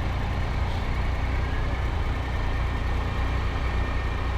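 Triumph Tiger 800 motorcycle's inline three-cylinder engine running in slow, heavy traffic: a steady low rumble with the noise of the surrounding cars.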